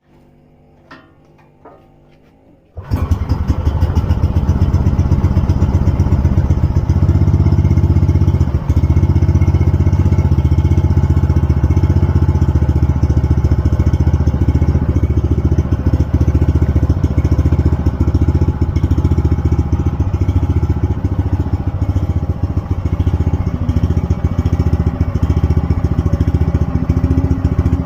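Small engine of a water pump set starting up about three seconds in, after a few light clicks, then running steadily and loudly; this is the engine that was repaired for lost compression.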